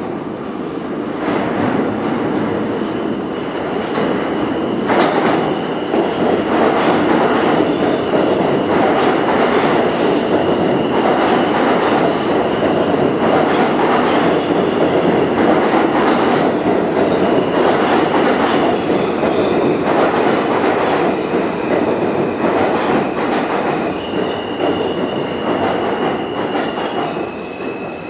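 R160A subway train running into a station: steady rumble with repeated clacks as the wheels cross rail joints, and a high squeal that shifts pitch several times. The noise eases off near the end as the train slows.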